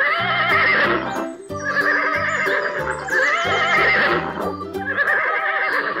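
Horse whinnies, a recorded sound effect, several in a row, each a wavering, shaking call of about a second, over cheerful background music.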